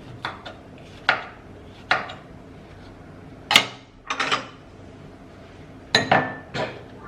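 Kitchenware knocking and clattering: about seven separate, irregular knocks with brief ringing, the loudest about three and a half seconds in and again around six seconds.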